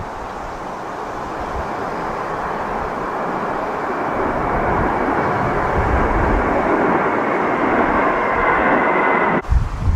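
Jet airliner engines on landing approach, a steady roar with a faint high whine that grows gradually louder as the plane nears, then cuts off abruptly near the end, where wind buffeting the microphone takes over.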